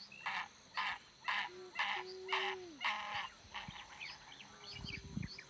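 Birds calling: a run of about six short calls, roughly two a second, followed by a small bird's quick twittering chirps. A brief low rumble comes near the end.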